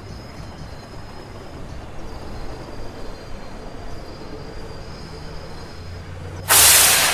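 New York City Subway shuttle train running with a low rumble and a faint steady whine, then, about six and a half seconds in, a sudden loud hiss of air that starts to fade: the train's air brakes venting.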